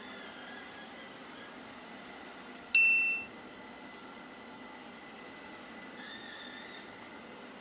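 A single sharp electronic beep about three seconds in, dying away within half a second, over a steady faint hiss with a thin high tone.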